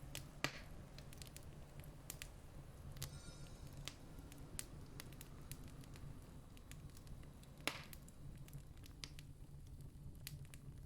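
Wood campfire crackling, with scattered small pops and two louder snaps, one about half a second in and one near the end, over a steady low rumble.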